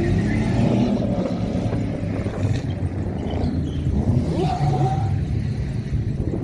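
Car engine running with a deep rumble, its pitch rising briefly about four seconds in.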